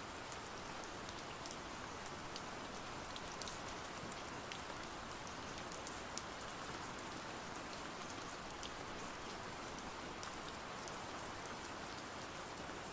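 Steady rain falling, with scattered small sharp ticks of drops throughout.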